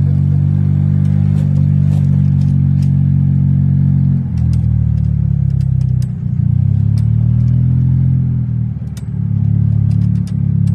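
Golf cart running along a trail: a steady, loud motor hum that eases off about four seconds in and dips briefly twice more, with scattered clicks and rattles from the ride.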